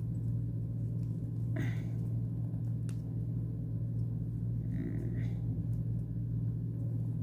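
A steady low hum, with a few faint, brief rustles from yarn and a crochet hook being handled as the magic ring is pulled tight.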